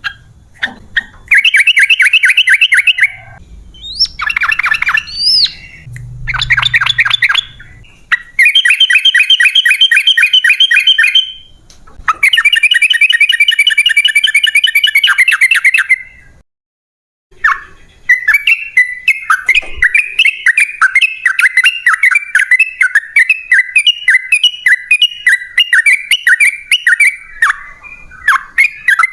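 Yellow-vented bulbul calling: loud, rapid chattering trills in bursts of a few seconds each, then, after a short break, a fast continuous run of short repeated notes.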